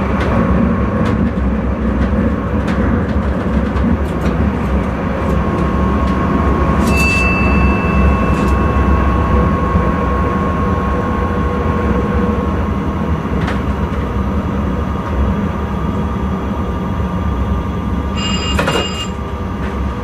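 Intercity train running on the rails, heard from inside the driver's cab: a steady rumble with a few sharp clicks. About seven seconds in comes a short high tone, and near the end a brief high-pitched sound made of several tones.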